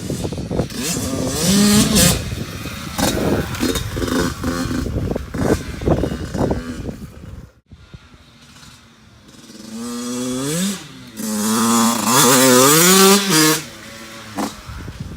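A 2014 Yamaha YZ85's single-cylinder two-stroke engine revving as the dirt bike is ridden, its pitch rising and falling with the throttle. The sound breaks off abruptly about halfway through, then the revving picks up again and is loudest near the end.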